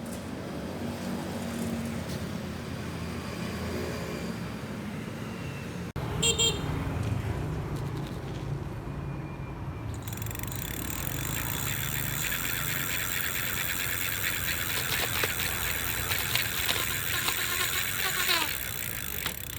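Street and vehicle noise across a few short clips, changing abruptly about six seconds in and again about ten seconds in, with a brighter hiss in the last part.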